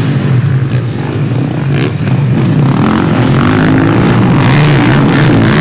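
Motocross motorcycle engines running and revving, several bikes overlapping, getting louder about two seconds in and then staying loud.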